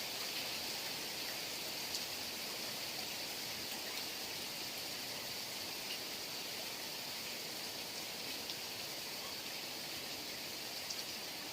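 Heavy rain falling in a steady hiss, with a few distinct drops ticking now and then.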